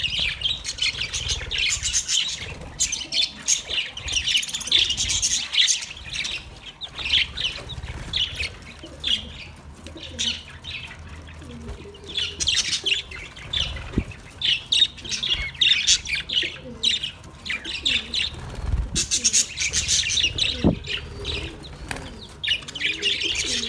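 Many small birds chirping in rapid, overlapping bouts that swell and ease off, high and busy, with a low rumble underneath and a couple of brief knocks.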